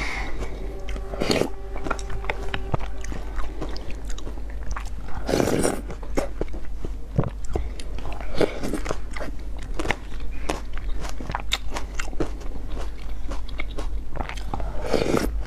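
Close-miked eating: wet chewing of spoonfuls of yogurt with granola and fruit, full of many small crisp crunches.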